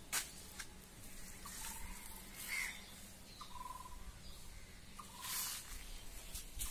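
Faint bird calls: a few short, even-pitched calls a second or two apart, over a low rumble, with a few soft clicks.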